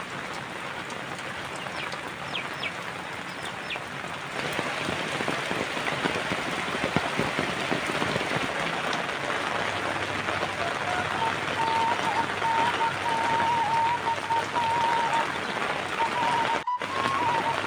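Steady rain falling on surfaces in a village, an even hiss that grows heavier about four seconds in. About two-thirds of the way through a thin, steady high tone joins it and holds, and the sound drops out for an instant near the end.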